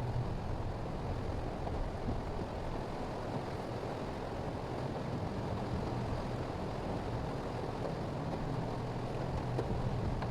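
Steady low driving noise of a 2023 Mitsubishi Xpander under way, an even drone of engine and tyres on a rain-wet road.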